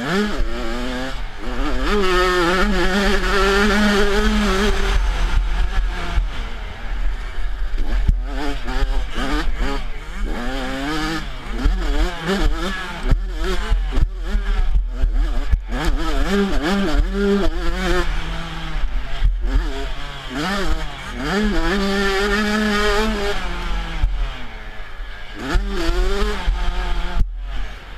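Motocross dirt bike engine revving hard and easing off again and again, its pitch climbing through each gear, held high for a few seconds at a time and dropping sharply as the throttle closes. A steady low rumble runs underneath.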